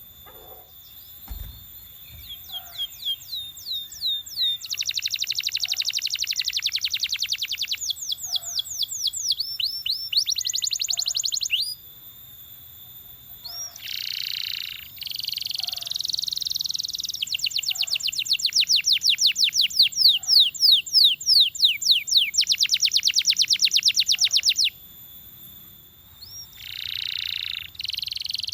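Canary singing: a run of fast trills, each phrase a rapid repetition of one high whistled note or sweep lasting a second or several, with short pauses and changes of note between phrases.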